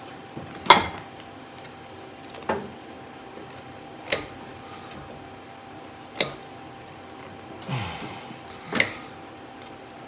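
Sharp clicks and knocks of parts and tools being handled while a rubber fuel hose is fitted onto a copper fuel line, about six single knocks a second or two apart. A faint steady hum runs underneath.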